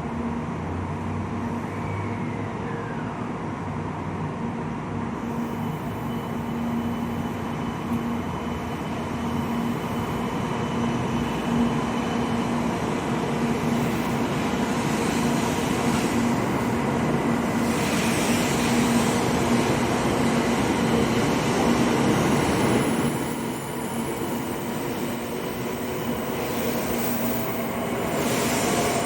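Interior running noise of a Sanyo Shinkansen 700 series RailStar train: a steady rumble with a constant hum, swelling louder through the middle and dropping back suddenly a few seconds before the end.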